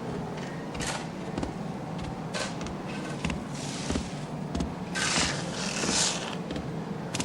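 Moist soil being shovelled into a pit and tamped with a wooden rammer: irregular dull thuds and scrapes, with a louder rush of noise about five to six seconds in.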